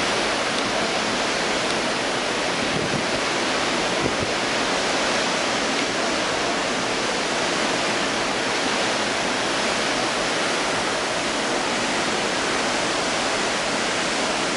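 Steady, even rushing of wind and sea around a moving cruise ship, with no breaks or sudden sounds.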